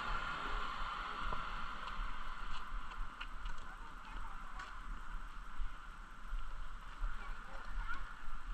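Outdoor ambience during a bicycle ride: a fluttering low wind rumble on the microphone over a steady hiss, with a few faint ticks.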